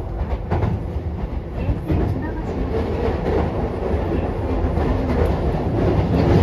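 Keisei 3000 series electric train running, heard from inside the car: a steady low rumble with a few clicks of the wheels over rail joints, growing a little louder toward the end.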